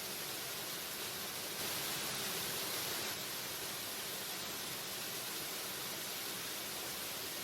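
Waterfall: the continuous rushing hiss of falling water, even and unbroken, swelling slightly for a second or so about two seconds in.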